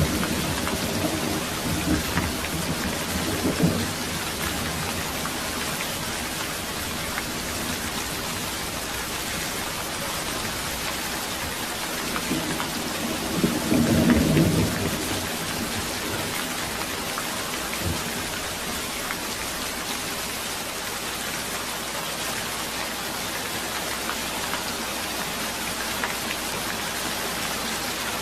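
Steady rain with thunder: a rumble dies away over the first few seconds, and a second roll of thunder swells and fades about halfway through.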